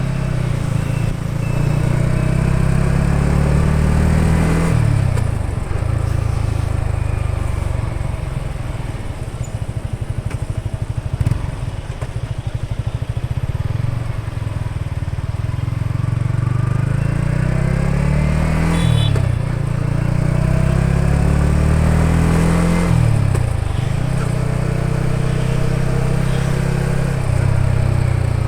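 Yamaha XSR 155's single-cylinder engine pulling the bike along, its pitch climbing under acceleration and dropping sharply at gear changes: about five seconds in, and twice more in the later part.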